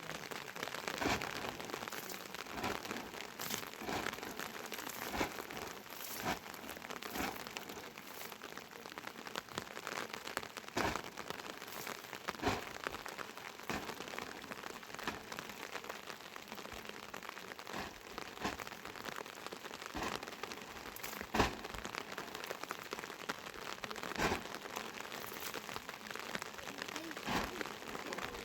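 Rain falling steadily, with many irregular sharp taps of drops striking a surface close by.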